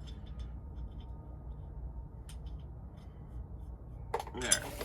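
Low steady hum with a few faint ticks, then about four seconds in a quick run of loud metallic clinks and rattles as metal tools or parts are handled.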